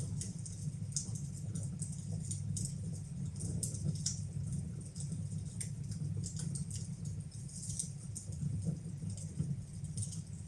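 Wood fire burning in a fireplace, crackling with frequent small irregular pops over a steady low hum.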